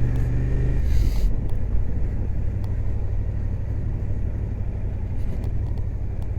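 Suzuki GSX-8S parallel-twin engine heard through a helmet microphone, running steadily, then easing off about a second in. A low wind and road rumble is left as the bike rolls on.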